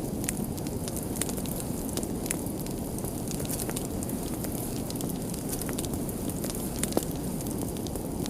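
Wood fire burning, a steady low rumble of flames with frequent small crackles and a sharper pop about seven seconds in.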